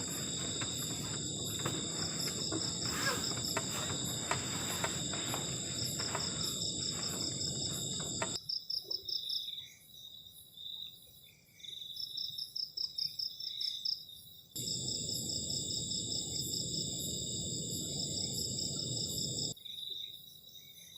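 Crickets trilling steadily in several high pitches at once, one of them pulsing. A low, even rushing noise underneath cuts off abruptly about eight seconds in, comes back around fifteen seconds and stops again near the end.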